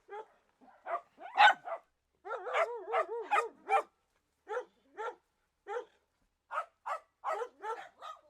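Repeated short, high-pitched cries of a young animal, irregularly spaced, with a longer wavering cry about two and a half to four seconds in.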